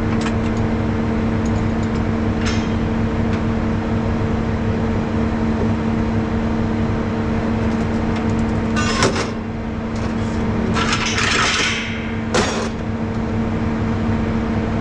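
Rollback truck's diesel engine running steadily, with two sharp knocks, about nine and twelve seconds in, and a short rattling noise between them.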